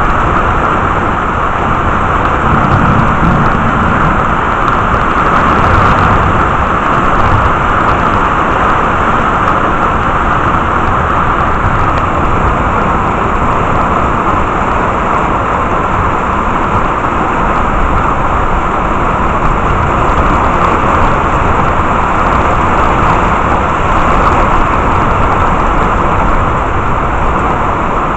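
Heavy rain pouring steadily during a thunderstorm.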